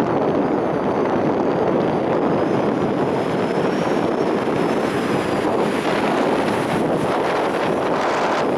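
Strong storm wind buffeting the microphone in a steady, loud rush, over heavy surf breaking on the beach.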